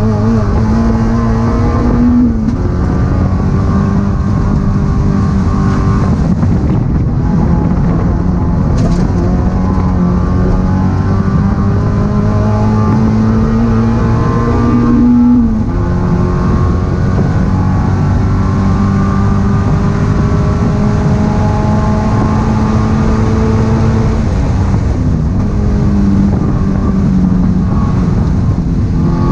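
2013 Mazda NC Miata's 2.0-litre four-cylinder engine heard from inside the cabin, driven hard around a track. The revs climb steadily and drop sharply about two seconds in, again about halfway, and once more near the end.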